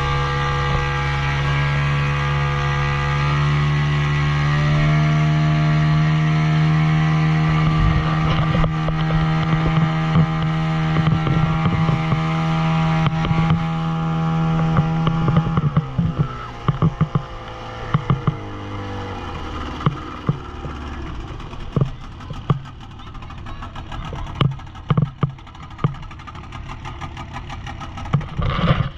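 Motorboat engine running steadily at speed, then easing off about fifteen seconds in, its pitch dropping. After that it runs lower, with scattered sharp thumps.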